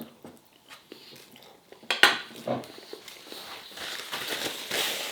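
Knife and fork clinking and scraping on a plate while eating, with a sharp clink about two seconds in and a longer scrape near the end.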